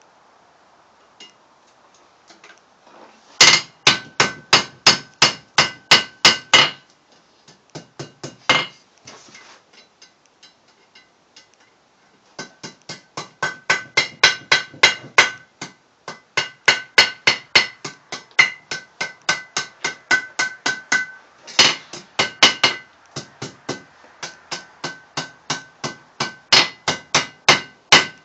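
Hammer blows on hot steel at the anvil, forging a small scroll on the end of a drive hook. The blows come in quick runs of about three to four a second, each with a ringing note, with a few lighter taps and a short pause near the middle.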